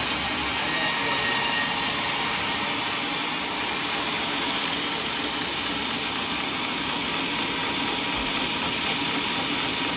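Sawmill machinery running steadily: an even, unbroken mechanical noise.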